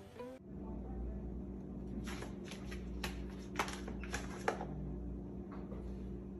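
A cluster of short light clicks and taps over a steady low hum.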